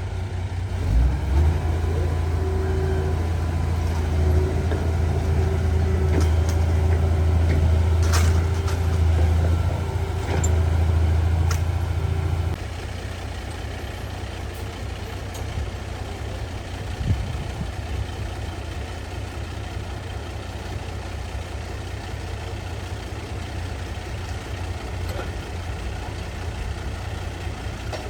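Heavy earthmoving machine's diesel engine running hard with a steady whine, then dropping suddenly to a lower, quieter run about twelve seconds in.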